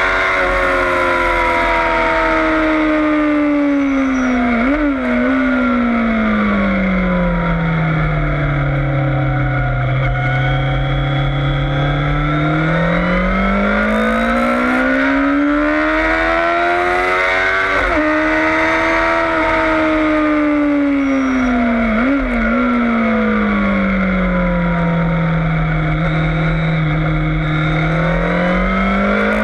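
Yamaha FZS600 Fazer's inline-four engine heard onboard on a race track: the engine note falls slowly as the bike slows, with a quick rev blip twice on downshifts, then climbs steadily as it accelerates out, over constant wind rush.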